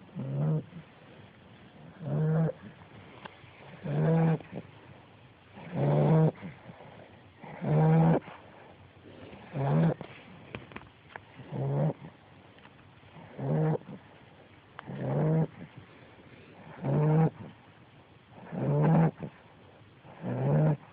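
A 10-week-old American Bulldog puppy snoring in her sleep: short snores at an even pace, about one every two seconds.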